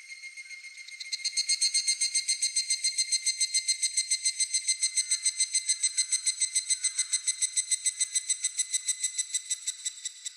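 Higurashi (evening cicada) calling: a fast, even series of high pulses, about six a second, that comes in loud about a second in, fades a little near the end and then stops. A fainter pulsed insect call runs beneath it at the start.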